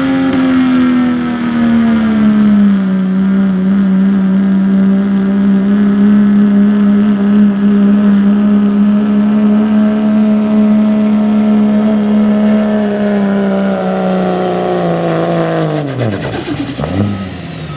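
A pulling truck's engine held at high revs under full load as it drags the weight-transfer sled, its pitch nearly steady for most of the pass. Near the end the revs fall away sharply and a high whine winds down as the pull ends.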